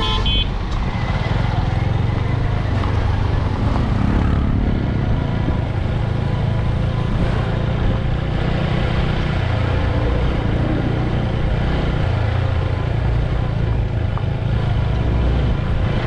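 TVS Apache RTR 160 4V's single-cylinder engine running steadily at cruising speed on the open road, mixed with steady wind and road noise. A vehicle horn beeps briefly right at the start.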